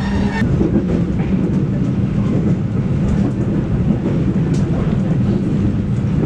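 Passenger coach running at speed, heard from inside the carriage: a steady rumble of wheels on rail with a low hum and a few faint clicks.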